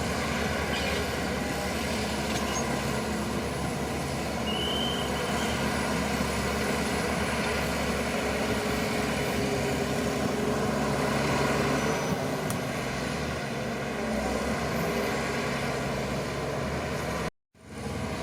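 Shantui crawler bulldozer's diesel engine running steadily as it works, with a brief high squeal about four and a half seconds in.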